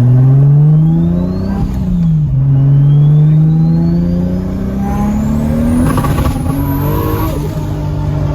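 Tuned Toyota Supra Mk4's turbocharged 2JZ straight-six pulling hard under acceleration, heard from inside the cabin. Its pitch climbs, drops at an upshift about two seconds in, then climbs again through the next gear, with a high whistle rising along with the revs.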